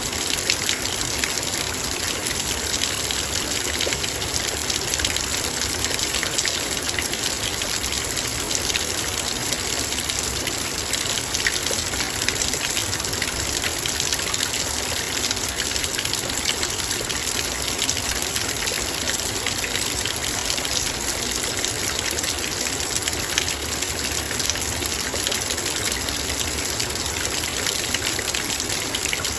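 Heavy rain falling steadily, a dense even hiss of drops with countless sharp little ticks of raindrops striking a metal bowl.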